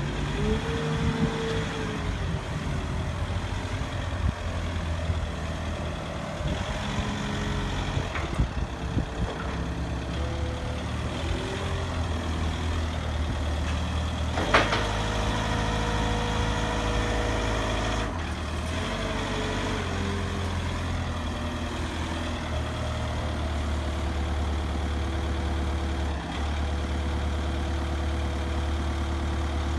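Truck engine running steadily at low revs, its pitch shifting slightly now and then. A brief sharp sound cuts through about halfway.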